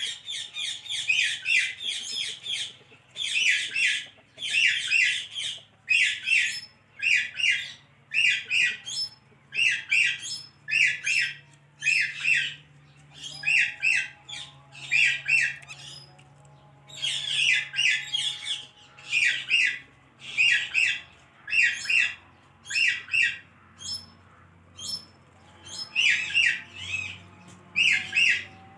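Pet parrot calling over and over: short, loud, high-pitched calls about one to two a second, with a few brief pauses.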